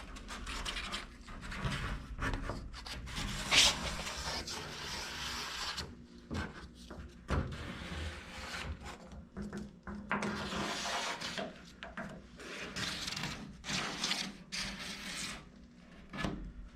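Hand sanding in the door gap of a fiberglass kit-truck body: sandpaper on a paint stick rubbed back and forth in irregular scraping strokes, truing the gap to an even width.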